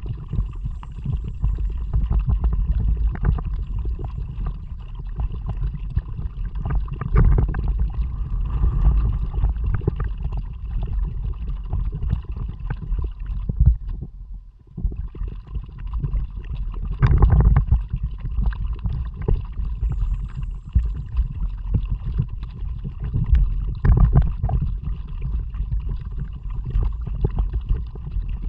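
Kayak under way: wind buffeting the action camera's microphone in a heavy low rumble, with water gurgling and splashing against the hull and paddle. The sound briefly drops away about halfway through.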